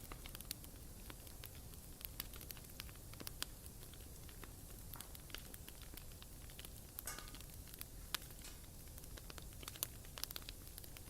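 Bonfire burning: wood crackling with irregular sharp pops over a low, steady rumble of flame, with a brief hiss about seven seconds in.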